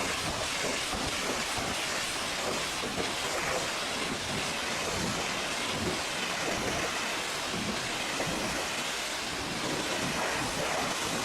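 Pressure washer spray hitting a truck, a steady rushing hiss of water without a break.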